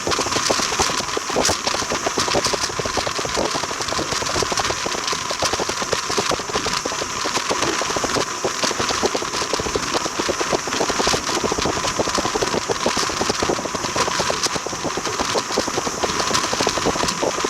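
Train on the move: a steady, dense rattling and clattering from the carriage running over the track.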